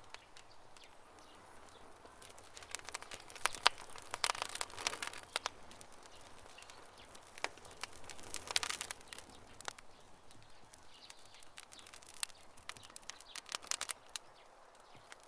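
Campfire crackling: irregular sharp pops and snaps over a faint hiss, coming in clusters a few seconds in, around the middle and near the end.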